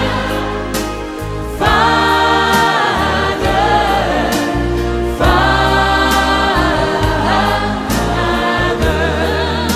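Christian worship music: a choir singing sustained chords over a bass accompaniment, the chords changing every couple of seconds.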